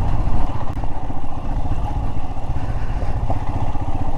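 Royal Enfield Himalayan's single-cylinder engine running at low speed over rough rocky ground, with the clatter of stones and the bike jolting over them.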